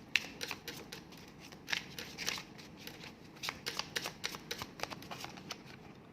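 Tarot cards being shuffled by hand: a quick, irregular run of card clicks and rustles.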